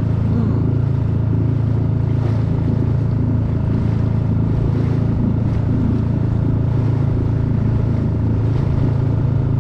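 Small boat's outboard motor running steadily at an even speed, its hum unchanging throughout.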